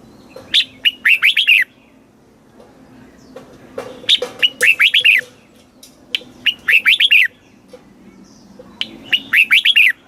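Red-whiskered bulbul singing: four short phrases, one every two to three seconds, each a quick run of falling whistled notes.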